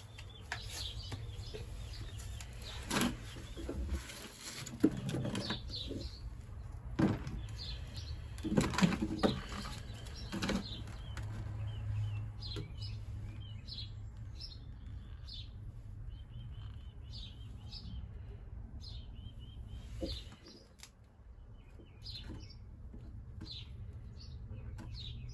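A few sharp knocks and clinks of parts and tools being handled, mostly in the first half, over a steady low hum. Birds chirp in short repeated calls through the second half.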